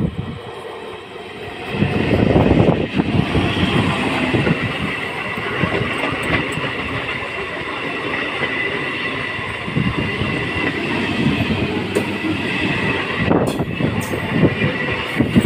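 Electric multiple-unit (EMU) suburban local train passing close by: coaches roll past with wheel clatter on the rails and a steady high whine. It gets loud about two seconds in, as the front of the train reaches the microphone.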